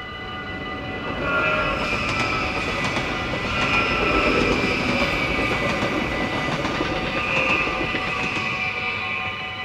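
Dutch level-crossing warning bells ringing steadily while an electric passenger train passes over the crossing at speed. The train's rush builds about a second in, stays loud for some seven seconds, then fades near the end as the bells keep ringing.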